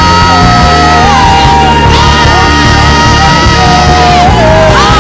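Loud live worship music, with held high notes that slide between pitches over a steady bass, and a congregation shouting praise.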